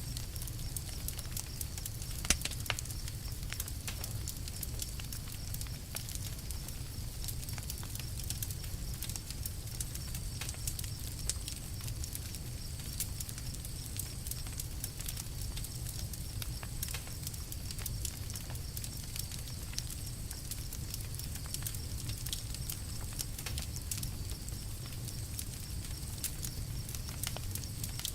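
Campfire crackling: a steady low rumble of flames with irregular sharp pops and snaps, one louder pop a couple of seconds in.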